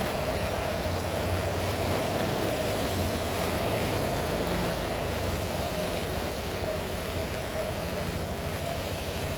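Heavy rain falling in a steady downpour, with a low steady hum underneath.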